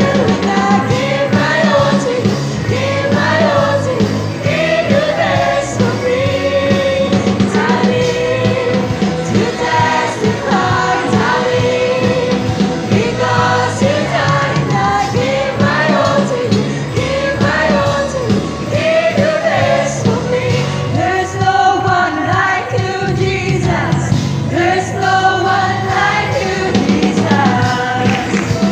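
Youth choir singing a gospel song in unison over a live band accompaniment.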